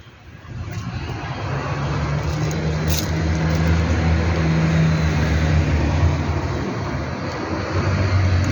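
A motor vehicle's engine running close by, swelling up about half a second in and then holding at a steady low drone.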